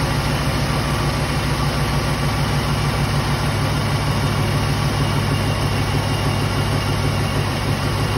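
Supercharged 6.2-litre LT4 V8 of a 2018 Chevy Camaro ZL1 idling steadily, with no whine from the supercharger, whose bad bearings and coupler have been rebuilt.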